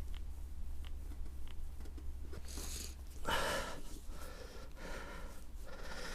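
A man breathing hard and straining with effort as he forces a sticky-string tyre plug through a puncture with the insertion tool: a series of heavy breaths, the loudest a little over three seconds in. A few faint clicks come in the first second and a half, over a steady low hum.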